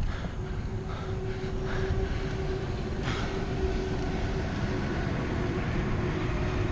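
Steady rumble and wind noise of a bicycle rolling along at speed, with a constant hum throughout, such as knobby tyres on the road surface.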